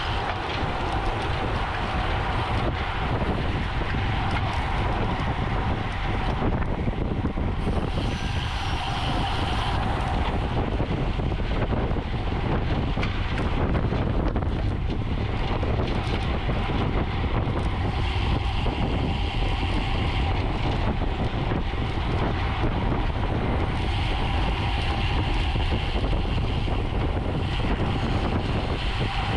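Steady wind rush on the microphone of a camera riding along on a racing bicycle at speed, with a faint steady hum underneath.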